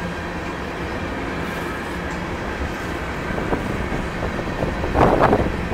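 Freight train of tank cars rolling past: a steady noise of steel wheels running on the rails, with a brief louder burst of noise about five seconds in.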